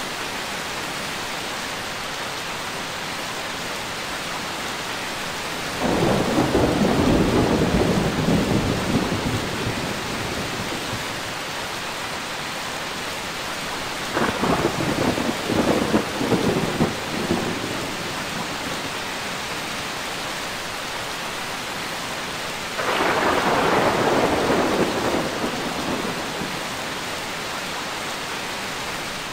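Steady heavy rain with thunder rolling three times: a long rumble about six seconds in, a crackling series of peals around the middle, and another rumble near the end.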